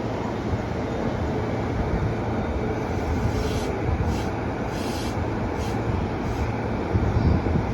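Electric commuter train pulling into a station platform: a steady low rumble of wheels and motors, with short hissing bursts every half-second to second from about three seconds in.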